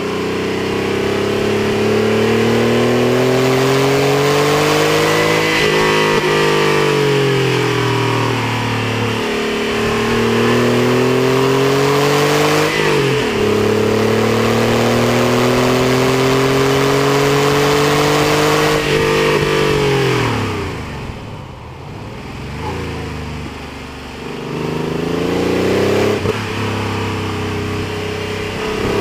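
Porsche 964's air-cooled flat-six under hard throttle on track. Its note climbs through the revs and drops at each shift or lift, several times over. About two-thirds in it falls away and quietens under braking for a corner, then pulls up through the revs again near the end.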